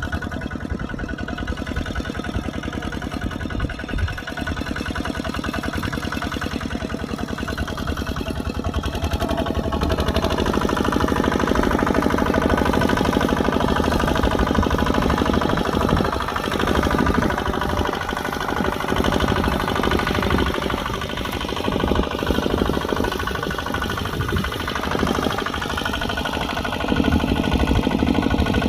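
Kubota RT140 two-wheel tractor's single-cylinder diesel engine running with a fast, even chugging. It grows louder about ten seconds in, dips briefly a few times, and swells again near the end.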